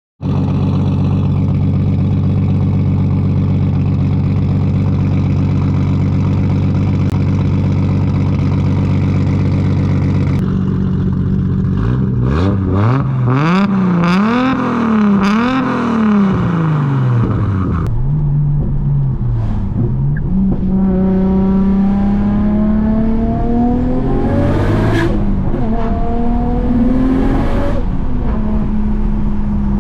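Nissan R32 GT-R's forged RB26 twin-turbo straight-six running steadily for about ten seconds. It is then revved in several quick blips, pitch swinging up and down, and near the end climbs in pitch through longer pulls.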